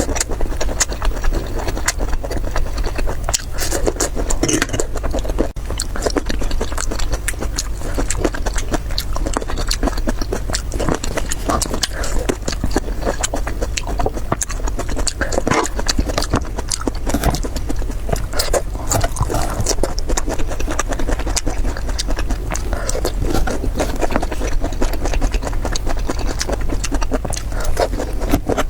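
Close-up eating sounds: continuous crackly chewing and mouth noises with many small clicks.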